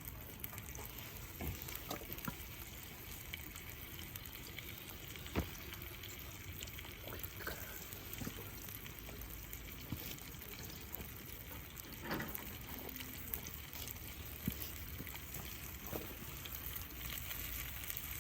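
Hamburger steaks sizzling in a skillet over a campfire: a steady frying hiss with scattered sharp pops and crackles.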